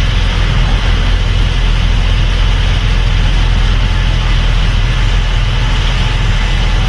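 Case IH Axial-Flow 8250 combine running steadily while harvesting corn: a loud, constant engine drone with a deep hum and an even mechanical hiss above it.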